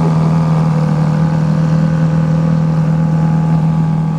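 Ferrari engine running at a steady idle through its exhaust, holding one even pitch with no revving.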